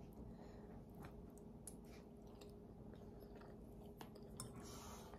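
Very faint chewing of a mouthful of macaroni and cheese with tuna, with a few soft, scattered mouth clicks.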